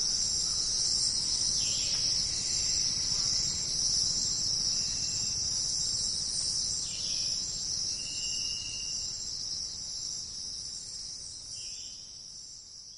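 Dense, steady chorus of jungle insects buzzing and trilling at a high pitch, with a few short chirps scattered through it. The chorus fades out near the end.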